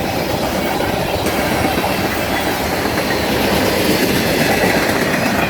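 Freight cars (tank cars and hoppers) of a CN manifest freight train rolling past at speed: a steady rumble with the dense clatter of steel wheels on the rails.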